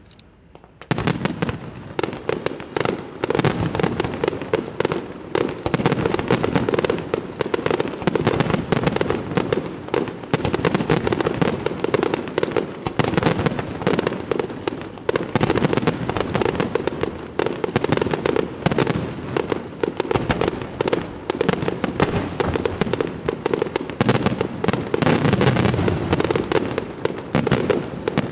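Fireworks display: aerial shells bursting in a rapid, dense string of bangs that starts about a second in and does not let up.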